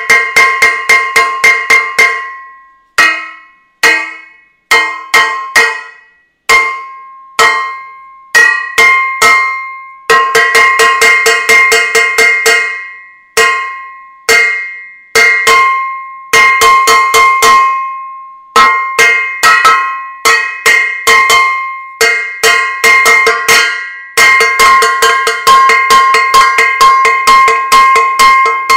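Metal saucepan banged over and over, in quick runs of strikes broken by single hits and short pauses, each strike ringing with a clear metallic tone.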